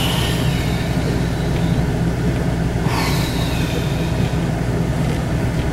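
Steady engine and road drone inside a moving vehicle's cabin, with a windshield wiper squeaking across snowy glass twice, a high squeal that falls in pitch, about three seconds apart.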